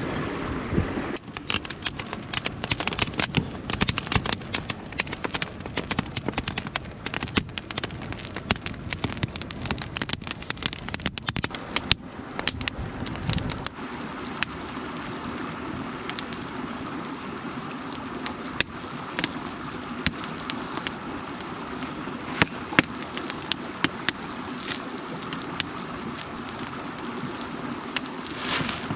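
Crackling and popping from campfire cooking, dense at first and thinning out after about 14 s, over the steady rush of a mountain stream.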